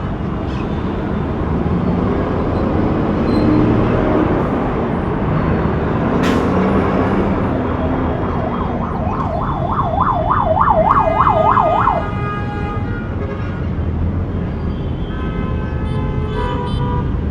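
Busy city street traffic with passing cars. Past the middle, a siren sounds a fast yelp, rising and falling about three times a second for a few seconds, and cuts off suddenly; car horns toot near the end.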